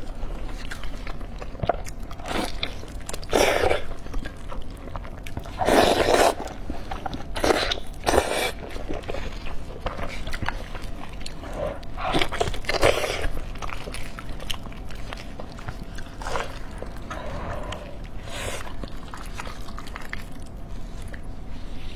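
A person eating close to the microphone, chewing and biting, with several short loud bursts of mouth noise at irregular intervals.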